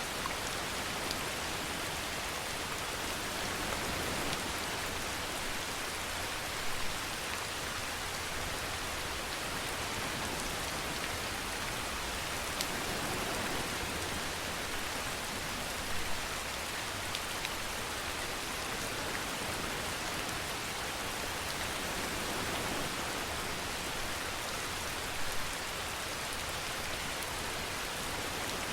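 Steady rain falling on a surface, an even dense hiss with a few louder single drops landing close by now and then.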